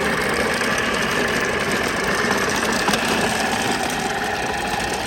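An engine running steadily at idle, with an even level throughout.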